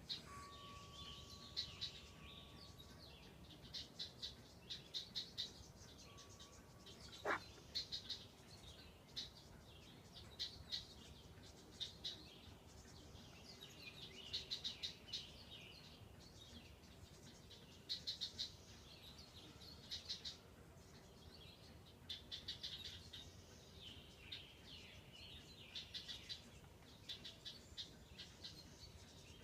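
Small birds chirping and twittering in repeated quick bursts of high notes, with short gaps between them. About seven seconds in comes one brief, quickly falling sweep, the loudest sound.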